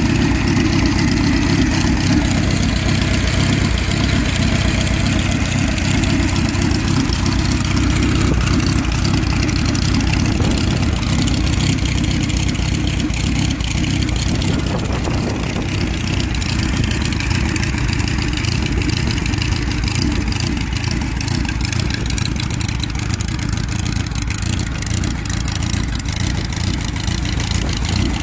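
Hand-built 2.6-litre 45-degree V8 engine of a vintage Indian motorcycle, idling steadily.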